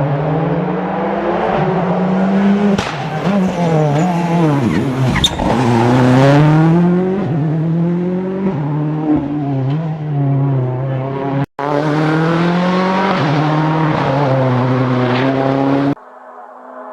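Rally car engines at full throttle on a special stage: the revs climb and fall through quick gear changes, with a deep drop and sharp rise as a car brakes and accelerates away. The sound breaks off abruptly about two-thirds of the way through and picks up again with another hard-revving car.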